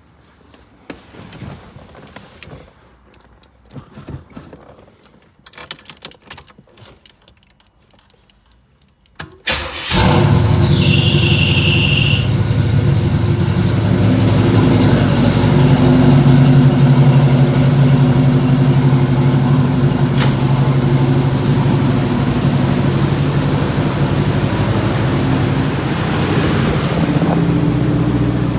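1984 Pontiac Grand Prix's carbureted engine started: a few scattered clicks and knocks, then about nine seconds in it cranks briefly and catches, with a high squeal for about a second and a half. It then settles into a steady idle.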